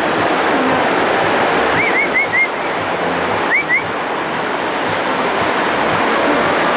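Birds chirping briefly over a steady rushing noise: three quick chirps about two seconds in and two more about a second and a half later.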